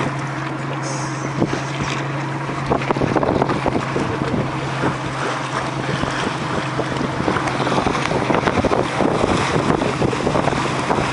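Wind buffeting the microphone over the steady low drone of a moving vehicle, with crackling gusts that get a little stronger about three seconds in.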